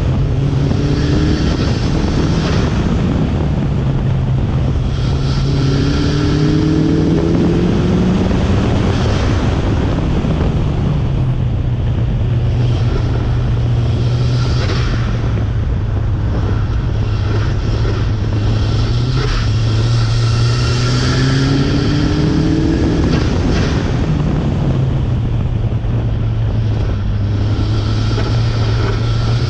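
Turbocharged 1992 Mazda Miata's 1.6-litre four-cylinder engine pulling hard under full throttle, its pitch climbing and dropping back several times as the car accelerates, shifts and lifts for corners, with steady wind and road rush.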